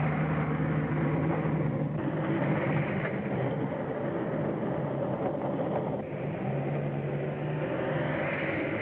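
Vehicle engine running steadily with a low hum, heard through a muffled early-1930s film soundtrack.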